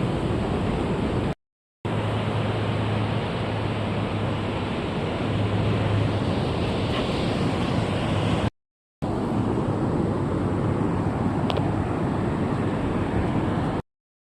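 Steady wash of ocean surf on a beach, with wind rumbling on the microphone. The sound drops out to silence for about half a second three times.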